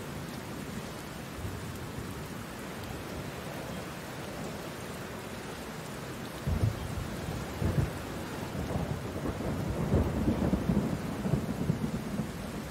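Steady rain falling. In the second half a run of short, low rumbles rises above it.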